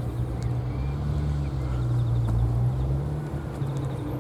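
A car engine running at low revs: a steady low hum that rises a little in pitch about a second in and settles back near the end.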